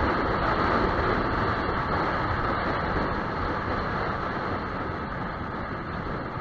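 Steady wind and engine noise from a Yamaha YZF-R15 motorcycle on the move, heard from on board; it grows slightly quieter toward the end.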